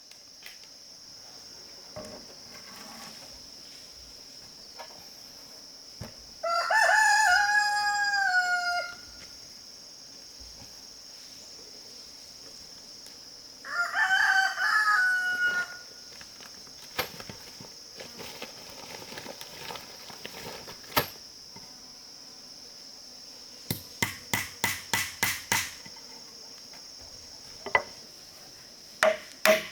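Rooster crowing twice, each crow a couple of seconds long and falling in pitch at the end, over a steady high-pitched whine. Near the end comes a quick run of about eight sharp knocks.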